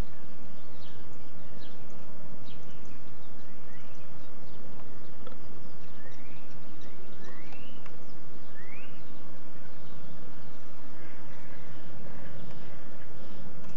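Small garden birds chirping, with three short rising whistled notes in the middle, over a steady low background noise.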